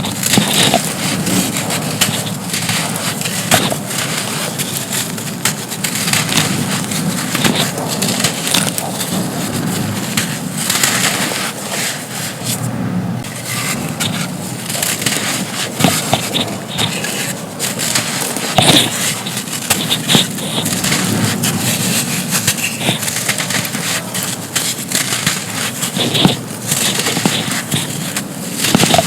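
Dry, crispy chunks of pure sand being crumbled and crushed: a continuous crunching made of many small crackling snaps.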